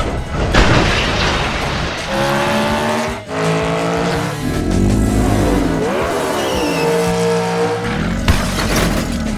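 Race-car engine revving and tire squeal sound effects, rising and falling in pitch, laid over background music.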